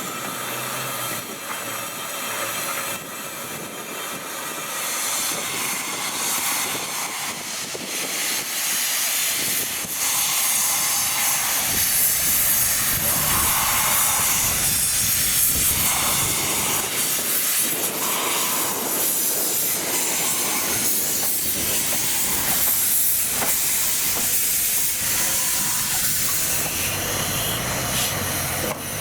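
Steam locomotive Ww 480 running with its train, steam hissing over the rumble of the rolling train; the hiss swells about ten seconds in and stays loud.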